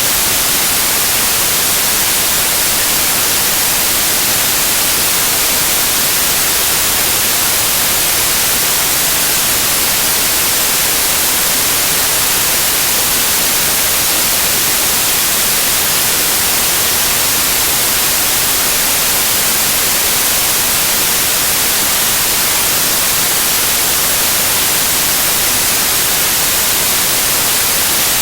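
Loud, steady white noise: an even hiss, brightest in the high end, that never changes.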